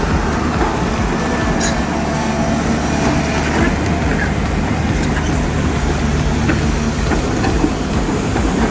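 Heavy diesel machinery engine running steadily with a low, even rumble, and a few faint clicks over it.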